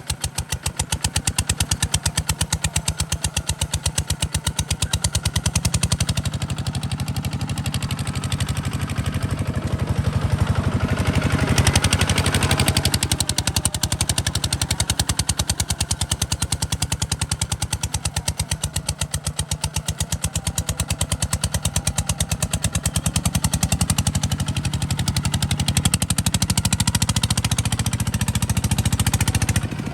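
Single-cylinder diesel engine of a Kubota RT140 DI walking tractor running with a fast, even beat of exhaust pulses. A brief surge of louder noise comes about twelve seconds in.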